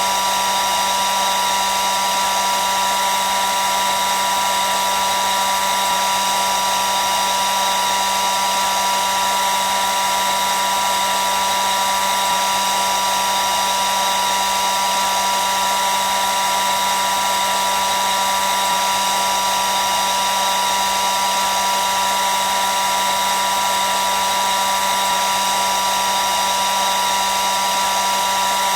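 Hair dryer running continuously at a steady speed: an even rushing blow of air with a constant motor whine.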